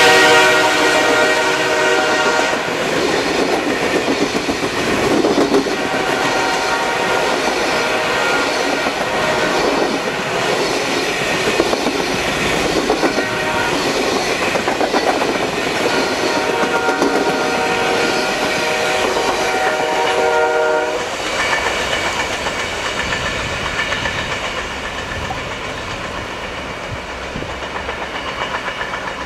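Via Rail passenger train passing close by, its wheels clattering over the rail joints as the coaches go by. The locomotive's horn sounds for the first couple of seconds and again for about five seconds past the middle. The rumble then fades as the train pulls away.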